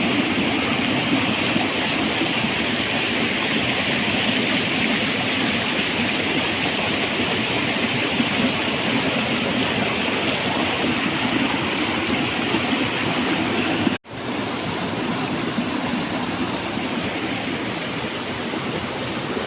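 Waterfall: a steady, even rush of falling water. It drops out for an instant about two-thirds of the way through, then carries on slightly quieter.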